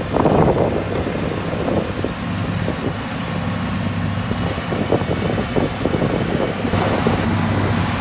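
Motor grader's diesel engine running steadily with a low hum, working on a gravel road; the noise grows fuller near the end.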